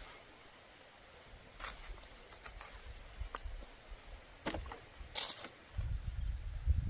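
Scattered short rustles and sharp clicks, a few seconds apart, with a low rumble starting near the end.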